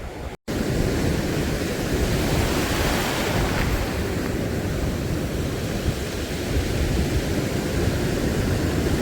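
Sea surf washing on a beach with wind buffeting the microphone, a steady rushing noise. The sound cuts out for an instant just after the start.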